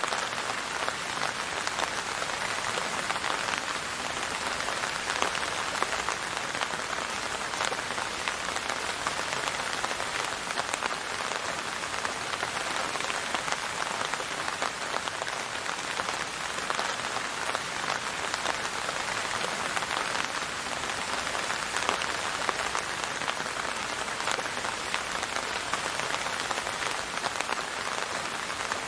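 Steady rain falling: an even hiss of countless drops striking a surface, with no thunder or music.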